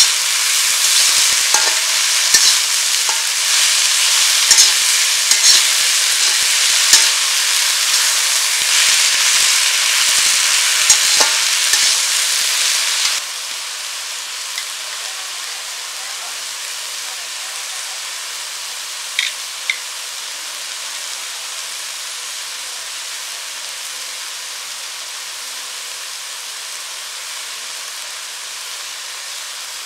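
Sour leaves frying in hot mustard oil in an aluminium karahi, sizzling loudly, with a metal spatula clicking and scraping against the pan as they are stirred. About thirteen seconds in, the sizzle drops suddenly to a quieter, steady hiss, with a couple of spatula clicks later on.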